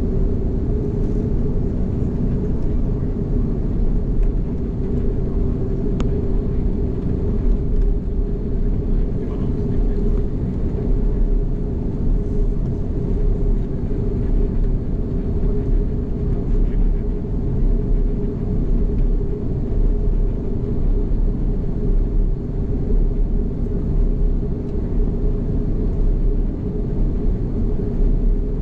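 Steady low rumble of an Airbus A330, heard from inside the cabin, with a constant droning hum and no change in level.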